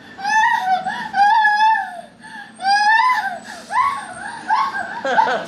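A baby crying: two long cries of about a second each, then a run of shorter, choppier cries.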